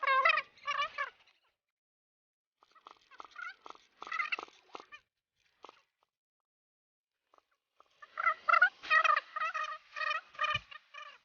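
A bird calling over and over in short warbling bursts, loud at first, fainter and sparser in the middle, then loud again after a brief lull. A low thump near the end.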